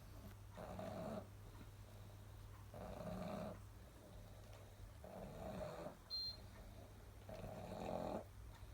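A sleeping dog snoring softly, four slow snores about two seconds apart.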